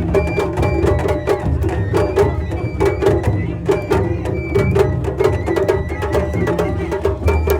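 Japanese festival float music (matsuri-bayashi): drums beaten in a fast, steady rhythm, with sharp higher percussion strokes throughout.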